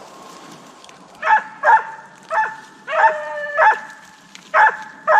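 A deer-hunting hound barking in a run of about six short, pitched bays, with one longer drawn-out bawl near the middle.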